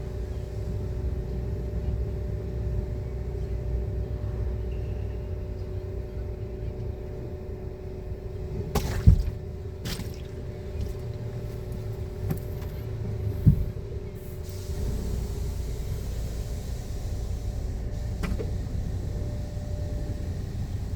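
Automatic car wash machinery running: a steady motor hum over a low rumble, with a few clunks midway. A high hiss comes in about two-thirds of the way through and holds.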